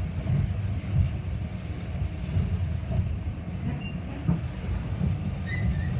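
Metra commuter train running, heard from on board as a steady low rumble with a few faint squeaks.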